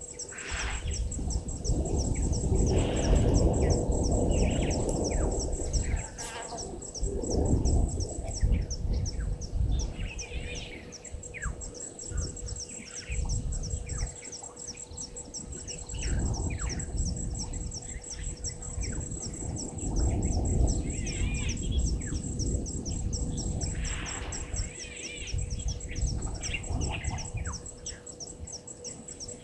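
Wild birds calling and chirping in short scattered calls, over a fast, even high-pitched ticking and a low rushing noise that comes and goes.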